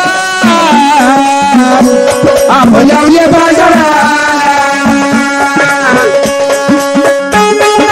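Live Marathi folk music: a sustained sung or played melody with drum strokes keeping a steady beat.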